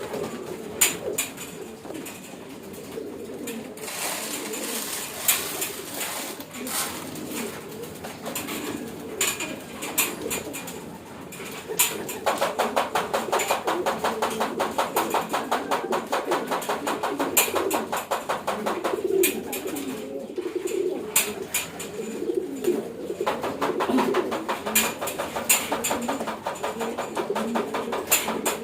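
A flock of homing pigeons cooing continuously in their loft, with scattered sharp clicks. A fast, rapid rattle joins in from about halfway through, stops briefly, then returns near the end.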